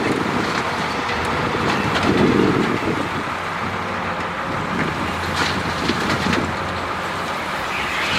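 Diesel engine of heavy earthmoving machinery running steadily, swelling briefly about two seconds in, with a few short metallic knocks in the second half.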